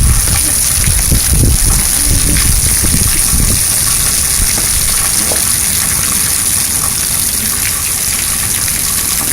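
Heavy rain falling, a loud steady hiss. Low rumbling sounds under it for the first three seconds or so, then drop away.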